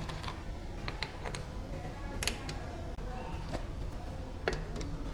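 Irregular light clicks and taps over a steady low hum, the handling of tools and parts during workshop repair work.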